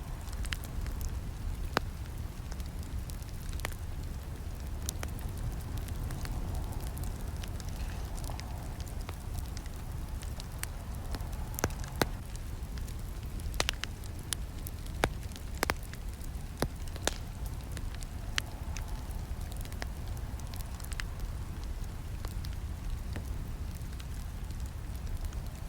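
Wood campfire crackling: irregular sharp pops and snaps over a low, steady burning sound, with the pops coming thickest about halfway through.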